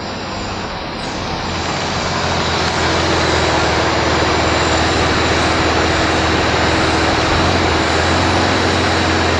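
Loud, steady rushing noise over a low motor hum. It comes in abruptly and builds over the first three seconds, then holds level.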